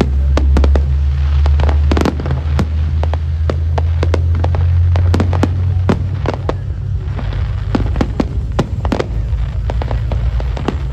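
Fireworks going off: many sharp bangs and crackles at irregular intervals over a constant heavy low rumble, with music playing alongside.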